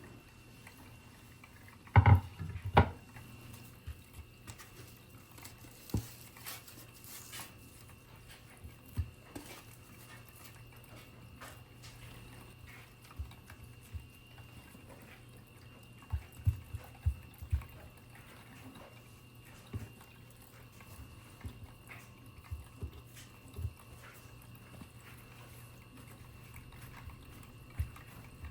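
Scattered knocks and clicks of objects being handled, loudest a double knock about two seconds in and a quick cluster of knocks past the middle, over a steady low hum.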